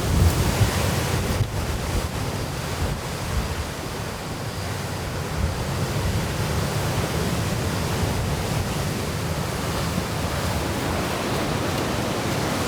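Sea surf washing onto the beach in a strong wind, with wind buffeting the microphone as a steady low rumble.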